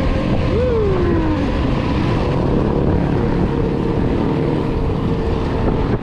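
Wind rushing over the microphone and the rumble of a mountain bike rolling fast downhill, with a brief falling whine about half a second in.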